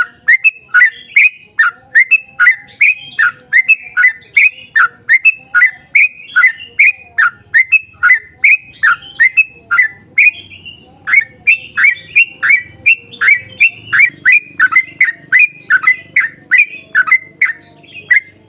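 Yellow-vented bulbul (trucuk) singing a long rapid run of loud, repeated sweeping whistled notes, about three a second, with a short break partway through.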